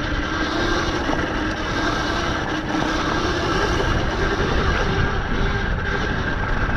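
Electric dirt bike riding a rough trail: the motor's steady whine, drifting slightly up and down with speed, over a continuous low rumble.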